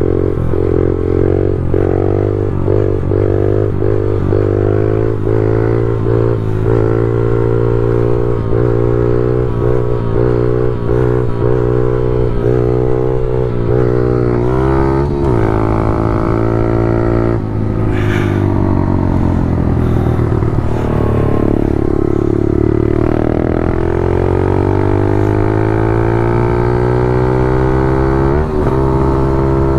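Pit bike's small single-cylinder four-stroke engine running under way, its pitch rising and falling with the throttle: quick repeated swells in the first half, then longer climbs and drops.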